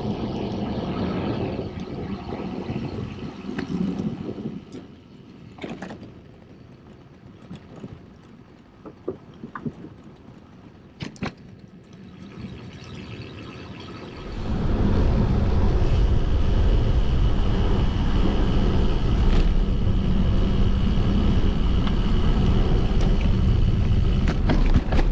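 Wind rushing over the microphone and road noise from riding a bicycle. It drops quieter in the middle with a few scattered clicks, then jumps back to a steady loud rush a little past halfway.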